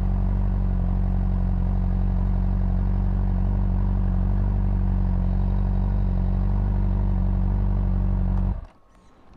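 Honda CBR600RR's inline-four engine idling steadily with an even, unchanging note, which cuts off suddenly about eight and a half seconds in.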